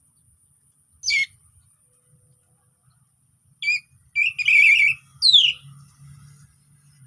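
Orange-headed thrush singing: a short sharp call about a second in, then a phrase of quick warbled notes ending in a falling whistle, over a faint steady high-pitched tone.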